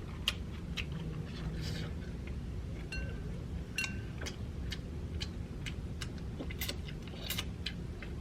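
Eating sounds from a shrimp egg roll being chewed close to the microphone: scattered sharp mouth clicks and a few short crackly crunches, over a steady low hum.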